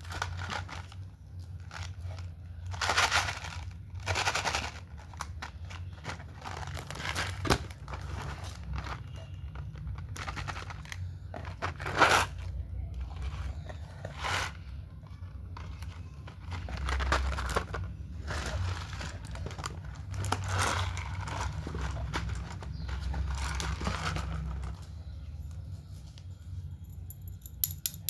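Plastic candy packaging crinkling and tearing as it is handled and opened by hand, in a series of short rustling bursts with sharp clicks.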